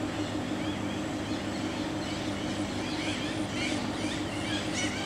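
Small birds chirping in quick, repeated high calls, busiest in the second half, over a steady low hum.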